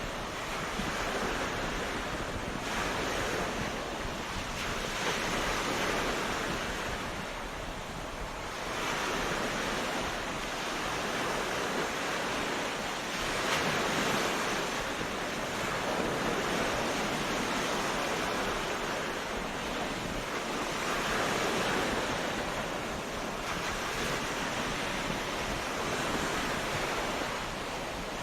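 Ocean surf washing onto a beach, swelling and easing in slow surges every few seconds.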